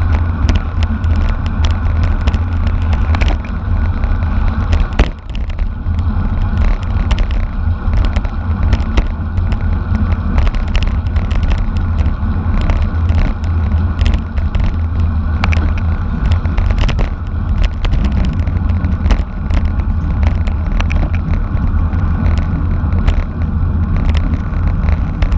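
Wind rushing over the microphone of a camera riding along in a bicycle race, with frequent sharp rattling clicks throughout.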